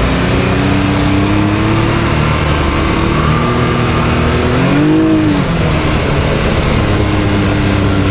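Can-Am Maverick X3 side-by-side's turbocharged three-cylinder engine running steadily on the trail, its pitch creeping up over the first few seconds. About five seconds in there is a brief rev that rises and falls back.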